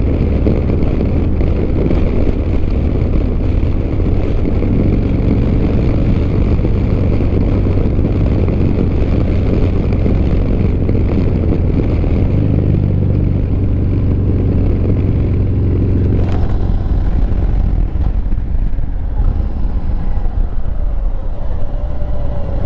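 Motorcycle riding at speed, a steady engine rumble mixed with wind rushing past the helmet-mounted microphone; the rumble eases and becomes less even from about sixteen seconds in.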